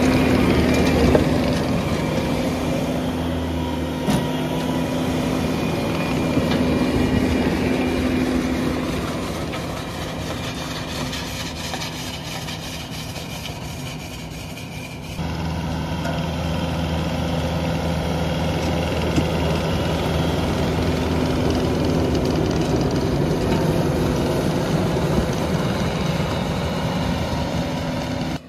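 Skid-steer loader's engine running steadily while driving a hydraulic forestry mulching attachment. The sound eases off a little past the middle, then jumps abruptly louder about halfway through.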